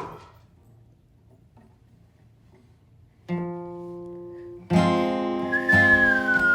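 Near silence, then a single guitar note rings out a little past halfway, and strummed acoustic guitar chords come in about a second and a half later. Near the end a high tone glides slowly downward over the chords.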